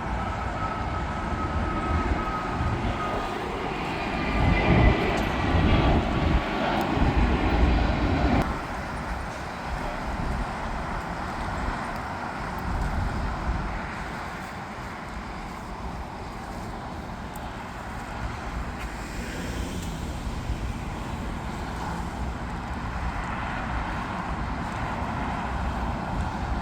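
Jet airliner engines rumbling as a plane passes, with a thin, slightly falling turbine whine early on. The sound is loudest in the first third and drops off suddenly about eight seconds in, leaving a softer steady rumble.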